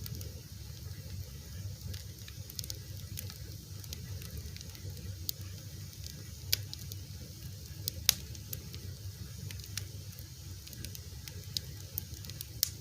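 Fire crackling: scattered sharp pops and snaps over a steady low rumble, with a louder pop about eight seconds in.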